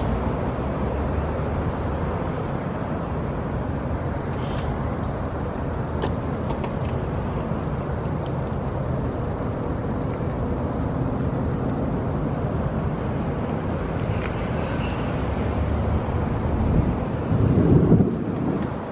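Steady rolling and street noise from riding an electric stand-up scooter along a road, with some wind on the microphone. A louder rumble comes briefly near the end.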